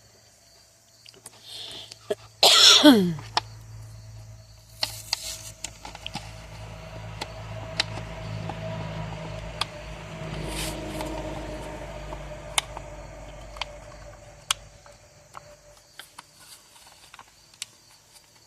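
Scattered clicks and light taps of hand tools and small plastic parts being handled during chainsaw fuel-line work. About two and a half seconds in, a loud, brief sound falls steeply in pitch, and a faint steady hum runs through the middle.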